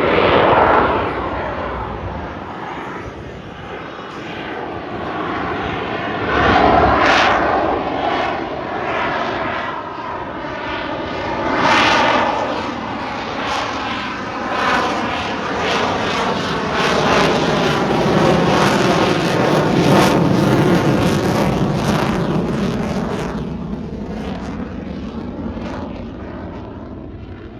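Jet aircraft engine noise from a fast flypast, loud, swelling and fading several times as the aircraft pass and turn, then dying away near the end.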